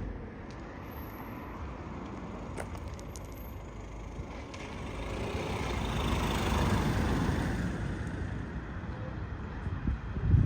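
A road vehicle passing by. Its tyre and engine noise swells to a peak about six or seven seconds in, then fades. A short low thump comes near the end.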